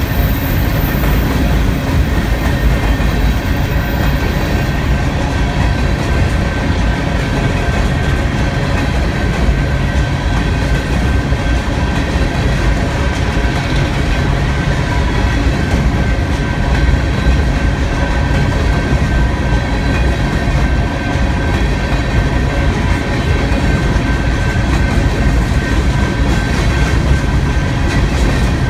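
Freight train of coal hopper cars rolling past close by: a steady rumble of steel wheels on the rails with some clickety-clack over the joints. Faint steady high ringing tones sit above the rumble.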